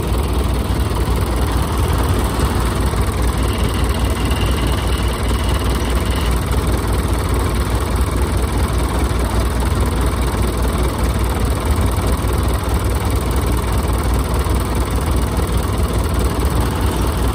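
Crawler tractor's diesel engine running steadily at low revs, a continuous low rumble.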